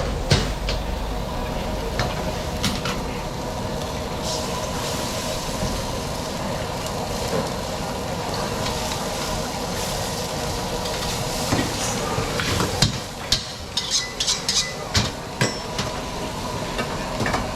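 Wide rice noodles and seafood stir-frying in a wok, sizzling steadily. From about two-thirds through, a quick run of sharp metal clanks of a spatula striking the wok.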